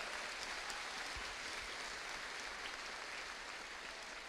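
Audience applauding, a dense, steady patter of many hands clapping that eases off slightly near the end.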